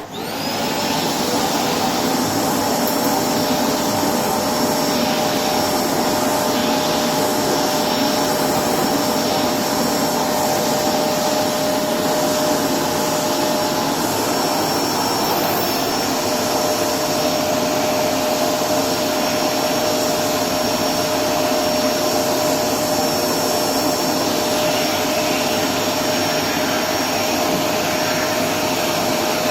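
Electrolux Precision bagless upright vacuum cleaner switched on, its motor spinning up within the first second and then running steadily with a whine, cleaning hard floor through its hose and floor nozzle.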